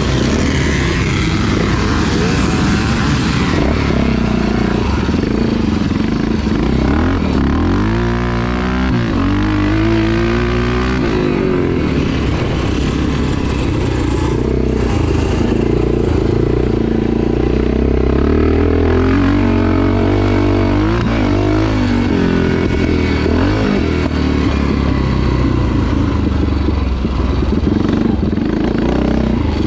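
Off-road motorcycle engines running hard during a vintage motocross race, their pitch rising and falling again and again as the bikes accelerate and shift, with several engines overlapping.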